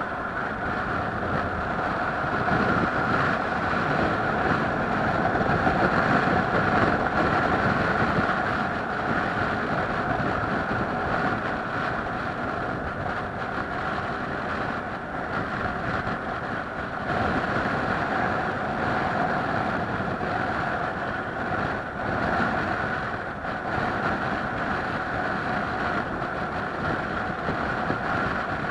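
Steady running noise of a moving vehicle: a constant hum with rushing wind or road noise, swelling and easing slightly but never stopping.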